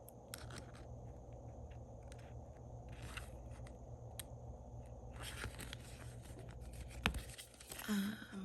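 Paper and planner handling: rustling, scraping and small clicks as journals are moved and put away, with a rustling stretch after about five seconds and a sharp knock about seven seconds in.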